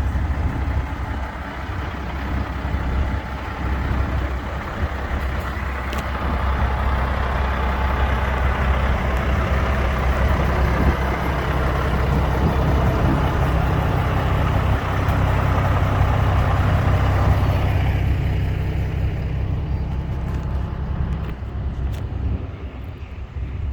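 Truck engine running close by, a steady low drone with a hiss of engine and road noise above it; the higher noise drops away sharply about eighteen seconds in, leaving the low engine sound.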